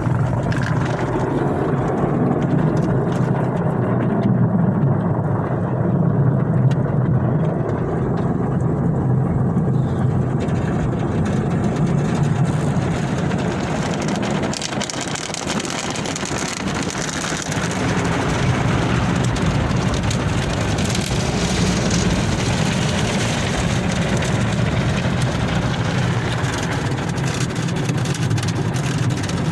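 A steady mechanical running noise: a continuous low hum with a noisy wash above it, holding an even level throughout.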